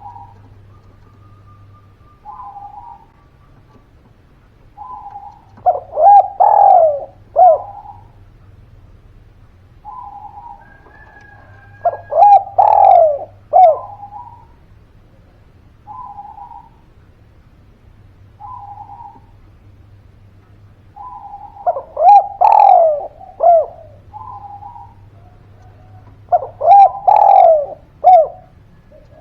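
Spotted dove (derkuku) cooing. Soft single coos come every couple of seconds, and four times it breaks into a louder phrase of several quick, falling coos. A faint low hum runs underneath.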